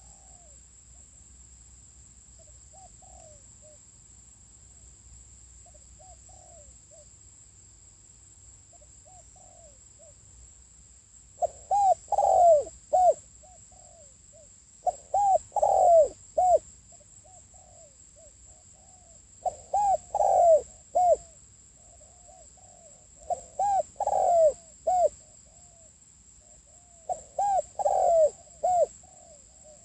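Spotted dove cooing: soft coos at first, then loud phrases of several coos repeating about every four seconds. A steady high-pitched whine runs underneath.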